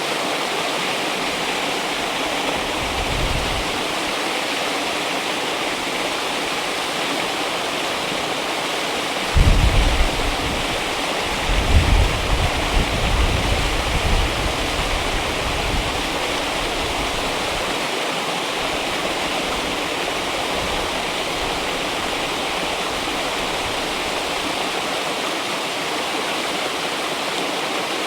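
River water rushing steadily. Bursts of low rumble are mixed in, briefly about three seconds in and again from about ten to sixteen seconds.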